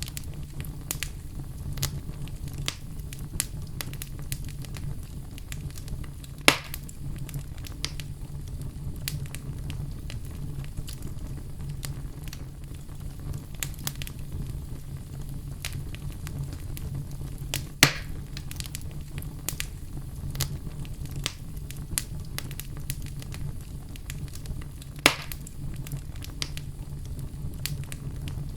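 Wood fire crackling in a fireplace: a steady low rumble under constant small crackles, with three louder pops spread through it.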